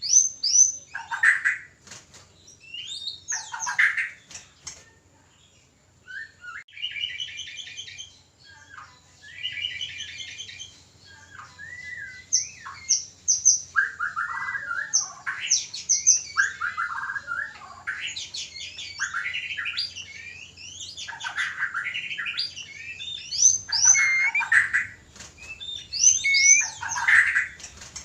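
White-rumped shama (murai batu) singing and calling in mating condition: a varied string of loud whistled phrases, harsh notes and quick repeated-note trills, broken by short pauses.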